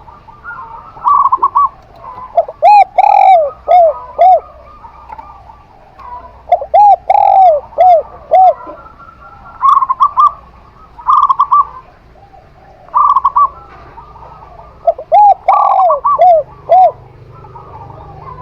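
Zebra dove and spotted dove cooing back and forth in repeated bouts. One voice gives a lower series of five or so rounded, arching coos; the other gives quicker, higher runs of short coo notes.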